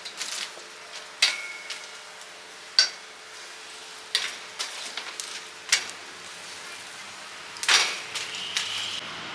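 Metal cooking utensils and pans clanking and knocking at irregular moments, about once a second, one clank ringing briefly, over a steady low hiss of kitchen noise.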